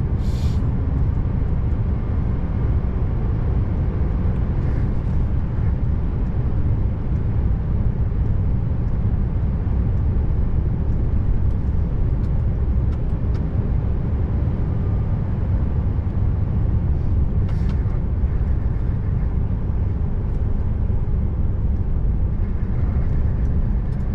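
Scania R590 V8 truck driving at a steady pace: an even low engine and road drone with no change in revs, and a few faint ticks now and then.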